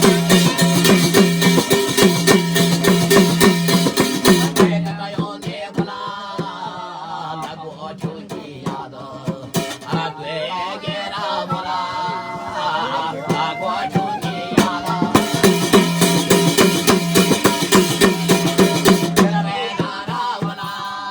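Garhwali jagar devotional folk music: fast, even drumming over a steady held tone, giving way after about four seconds to singing, then the drumming returns about fifteen seconds in.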